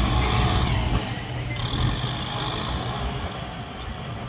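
Heavy vehicle engine running under load, loud for about the first second and then easing off to a lower rumble, with a steady high whine coming and going over it.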